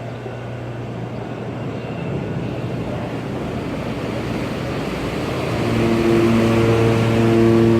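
The ferry M/V Hyak's horn sounding a long, steady blast on leaving the dock, starting about five and a half seconds in. Before it there is a steady engine drone with a rising rushing noise.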